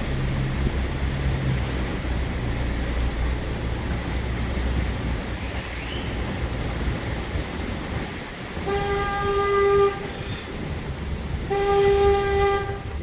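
Boat horn sounding two long blasts about a second and a half apart, over the low hum of a boat engine running that fades about halfway through.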